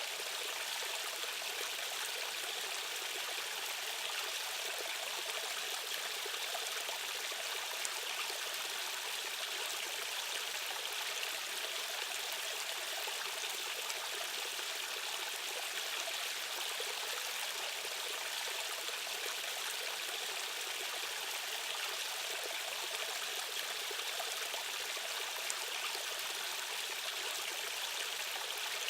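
Steady rushing of a fast-running stream, an even hiss of water over rocks with little low rumble.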